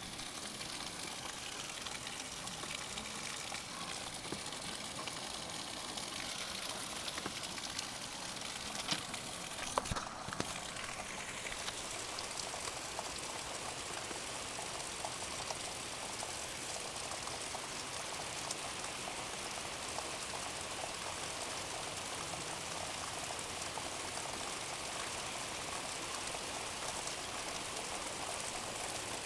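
Heavy rain falling hard and steadily, a dense even rush of water, with a couple of faint knocks about ten seconds in.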